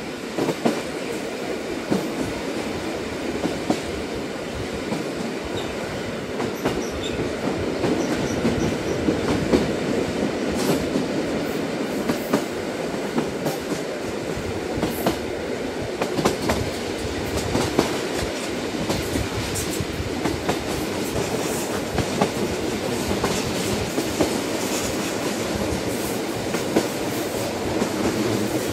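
Train running along the rails: a steady rumble with frequent irregular clicks and rattles from the wheels on the track.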